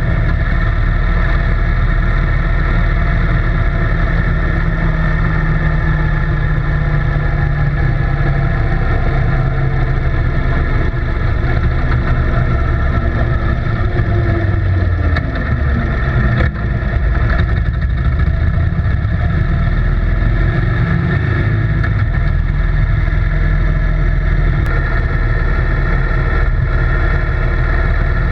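A motor running steadily, with a strong low rumble and a steady hum, its pitch gliding slowly a few times around the middle.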